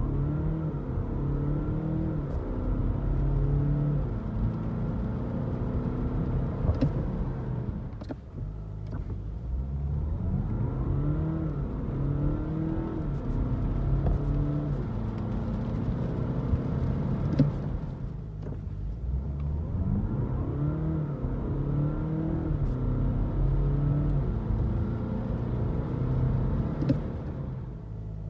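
Audi A4 40 TDI's 2.0-litre four-cylinder diesel accelerating hard, heard from inside the cabin: the engine note climbs repeatedly and drops back at each gear change. The sound falls away briefly about 8 and 18 seconds in before pulling up again.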